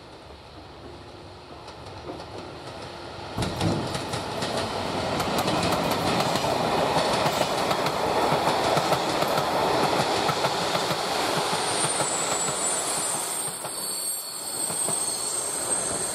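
Long electric-hauled passenger train (EP07 locomotives with PKP IC and Czech ČD coaches) passing close by. Wheels clatter over rail joints, growing louder about three seconds in, with a high wheel squeal near the end.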